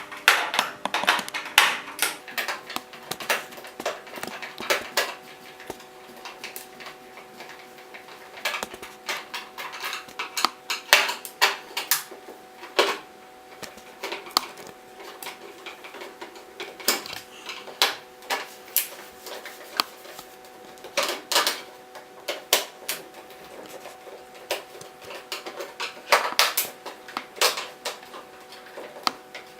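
Irregular clicks, taps and light clatter of a screwdriver working the screws out of the plastic casing of an Orpat 1240 PTC heater, with the casing handled and worked apart, over a faint steady hum.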